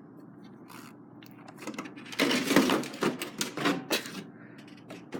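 A burst of quick clattering and scraping from things being handled and set down, lasting about two seconds and starting about two seconds in.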